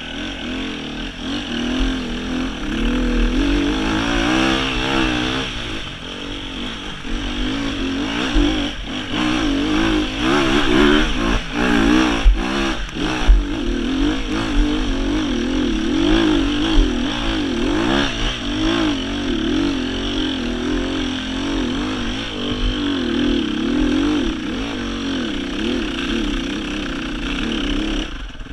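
Sherco 300 four-stroke enduro motorcycle engine being ridden hard, its pitch rising and falling with constant throttle blips. Several sharp knocks and clatter from the bike striking the rough trail come around the middle.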